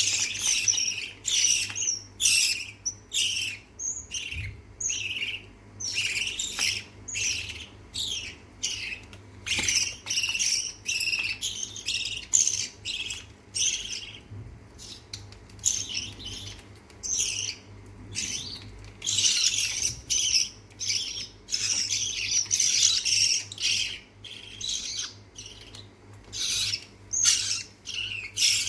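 Lovebird chicks giving harsh, rasping begging calls, short squawks repeated about once or twice a second without a break, as they are fed.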